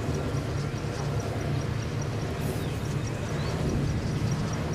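Strong wind blowing across the microphone: a steady, dense low rumble, with a faint high ticking repeating about four times a second.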